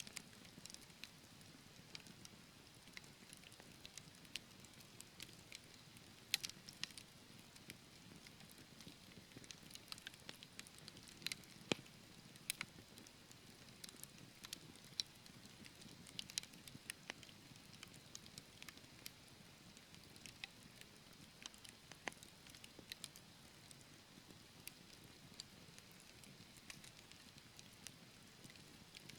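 Wood fire burning in a fireplace, crackling: irregular sharp pops and snaps from the burning logs, a few a second, over a faint steady low rustle of the flames.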